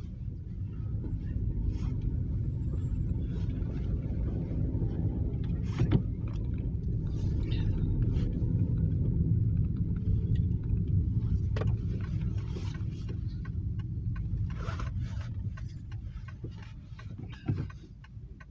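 Steady low road rumble of a car driving, easing off over the last few seconds as it slows, with a single sharp click about six seconds in.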